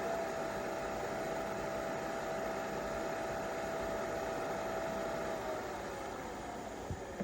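Nespresso Vertuo Pop+ coffee machine running its brew cycle: its motor spins the capsule with a steady whine that glides down in pitch after about five seconds, and a click sounds near the end.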